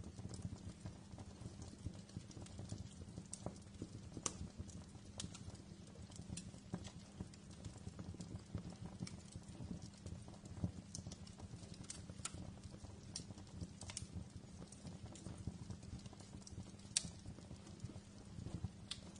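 Wood fire crackling in a fireplace: a steady low rumble of burning with irregular sharp crackles and pops. A louder pop comes about four seconds in and another near the end.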